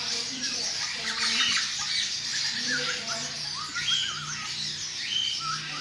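Many caged birds calling at once: a dense chatter of high chirps with short squawks and whistled notes scattered through it.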